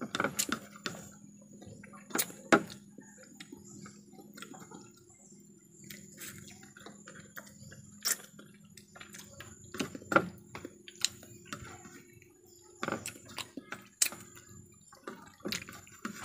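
Wet mouth sounds of a person eating by hand: chewing and lip smacks, with scattered sharp clicks.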